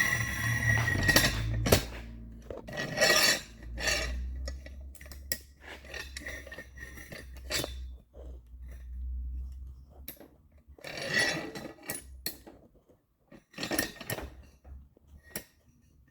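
Metal hand tools clinking and scraping in irregular bursts, with a low hum under the first half.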